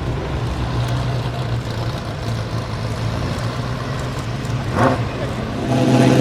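Ferrari F40 LM's twin-turbo V8 running at a steady idle, with a short rise in revs about five seconds in. Near the end it turns louder and fuller.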